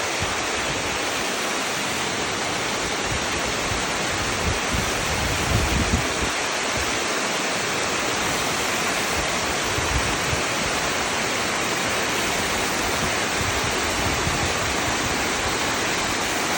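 Waterfall: a steady, dense rush of falling water, with a few brief low thumps about a third of the way in and again past the middle.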